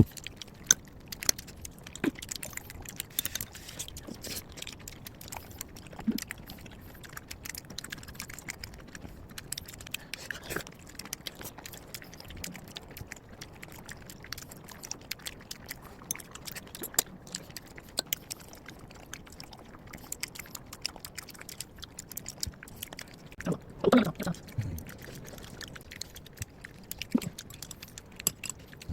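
A person eating: chewing, with scattered small clicks and taps of utensils and tableware. A brief murmur of a voice comes near the end.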